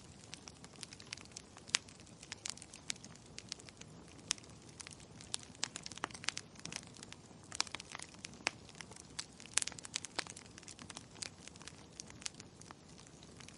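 Fireplace fire crackling: irregular sharp pops and snaps, several a second, over a soft steady hiss.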